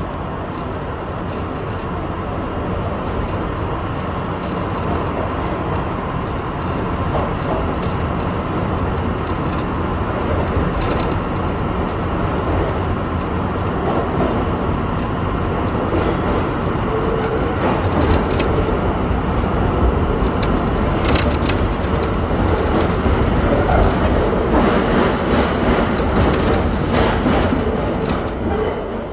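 Kawasaki R62 subway car running along the track: a steady rumble of wheels and motors that grows slowly louder, with a scatter of sharp clicks and knocks in the second half.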